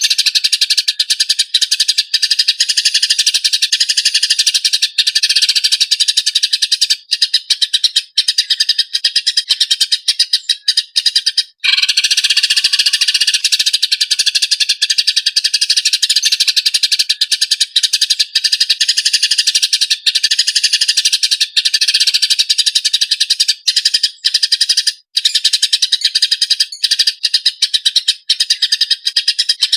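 Small songbird calling without pause: rapid, high-pitched trilling and chattering made of very fast strokes, broken only by a brief gap about 12 seconds in.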